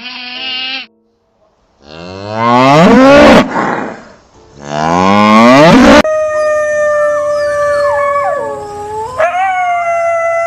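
Cow mooing twice, loud and long, each moo rising in pitch. This is followed by a long held call, steady in pitch apart from a brief dip and return near the end.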